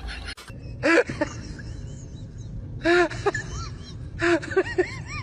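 An animal's short pitched calls, each rising and falling: one at about a second in, another at about three seconds, then a quick run of several.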